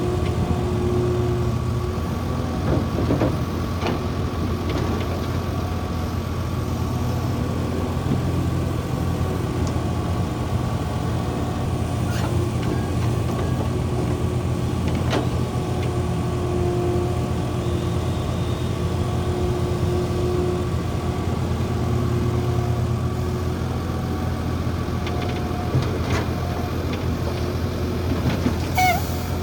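Heavy diesel earthmoving machinery running steadily at a constant engine speed, with a few sharp knocks and clanks scattered through.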